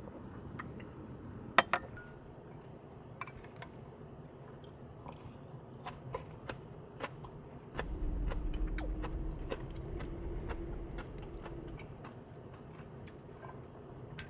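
Dog chewing and crunching food: scattered small crisp clicks, with two sharper clicks about a second and a half in. A low rumble with a faint hum joins from about 8 to 12 seconds in.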